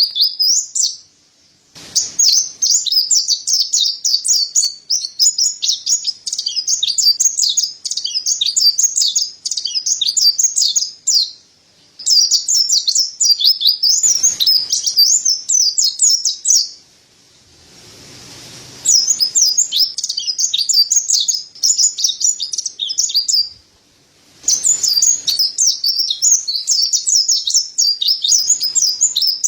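Mountain white-eye (pleci dada putih, Montanus) singing long, rapid, high-pitched twittering phrases, breaking off briefly a few times between phrases.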